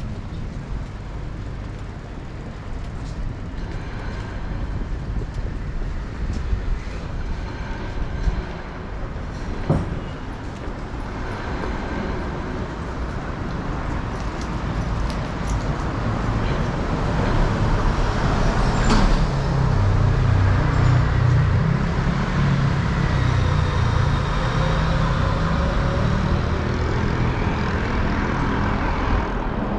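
City road traffic noise with vehicles passing. From about two-thirds of the way through, a heavy vehicle's engine rumble grows louder.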